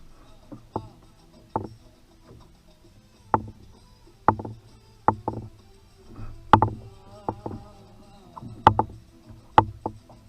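Kayak on the water with irregular sharp knocks and clunks against the hull, about a dozen of them and uneven in strength, over a low wash of water.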